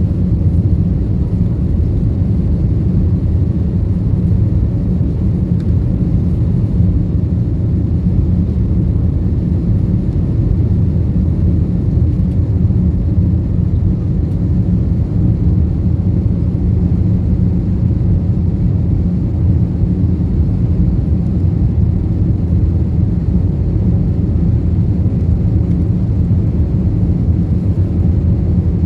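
Steady low rumble of an airliner's jet engines and rushing air heard inside the passenger cabin, even throughout.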